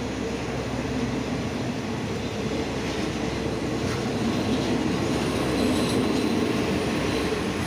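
State Railway of Thailand passenger coaches rolling past the platform: a steady rumble of wheels on rail.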